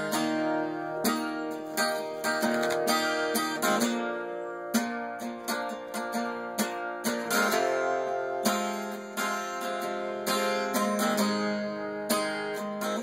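Acoustic guitar strummed on its own in an instrumental break, chords rung out with a stroke about every second; the chord shifts lower about eight seconds in.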